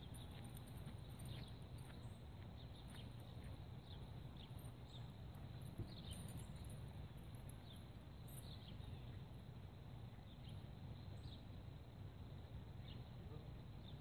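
Faint outdoor ambience: a steady low rumble with scattered short, high bird chirps throughout.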